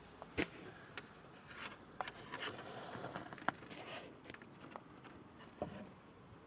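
Hand-tool work on a car's front suspension during reassembly: scattered clicks and knocks with some scraping. The two sharpest knocks come about half a second in and about three and a half seconds in.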